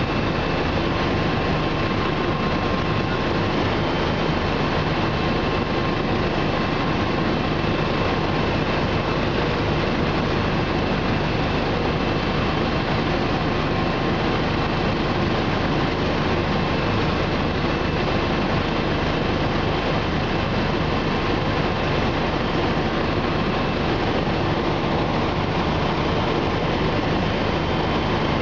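Bell 429 helicopter in steady cruise, heard from inside the cabin: its twin turbine engines and rotors make a loud, even noise with a few steady whining tones.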